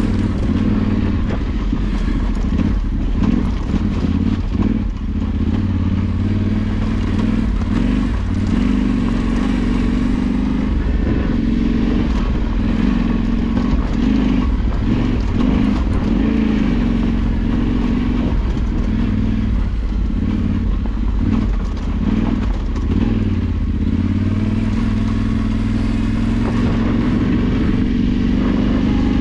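Engine of an off-road vehicle running steadily while under way, with some rattle and noise from the ride over the track.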